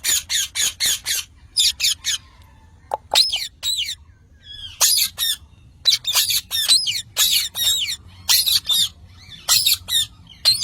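Parrots calling in quick runs of short, shrill, pitch-bending calls, in bursts of several calls with short pauses between.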